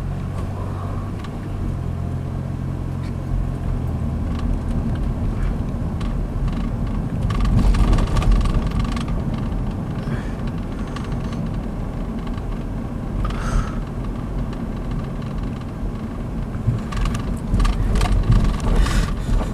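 A car driving, heard from inside the cabin: a steady rumble of engine and road noise, with light rattles and a swell in level about a third of the way through.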